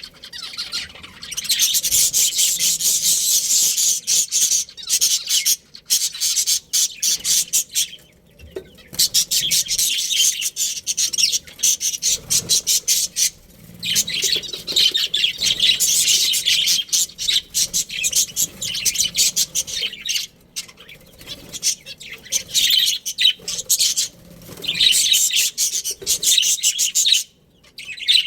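A colony of budgerigars chirping and chattering in rapid, high-pitched bursts, with brief lulls between long stretches of calling.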